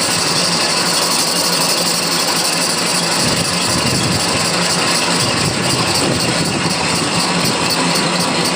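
Metal lathe running steadily while facing and turning the outside of a three-jaw chuck body, truing up an outer edge that has bulged from hammering. The sound deepens slightly about three seconds in.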